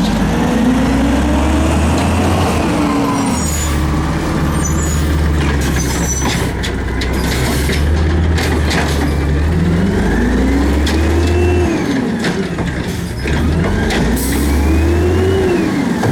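Garbage truck working: its diesel engine runs with a steady low hum and revs up and down in pitch several times while it drives the lifting gear, with scattered clanks and knocks.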